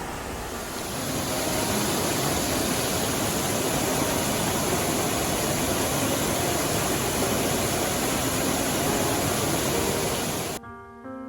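Mountain stream rushing over rocks, a steady dense water noise that swells about a second in. It cuts off abruptly near the end, where piano music begins.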